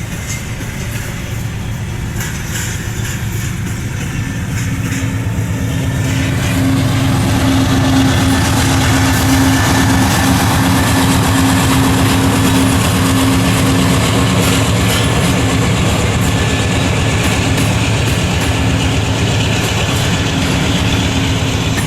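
Train rolling past, growing louder over the first several seconds and then running steady, with a steady humming tone through it.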